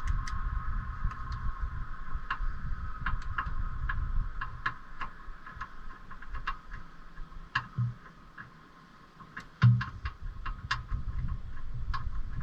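Scattered light clicks and ticks at an uneven pace over a low rumble, with one louder knock about three quarters of the way through.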